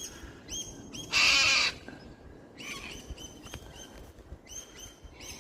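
Birds calling: one loud, harsh screech about a second in, then bursts of short, high chirps.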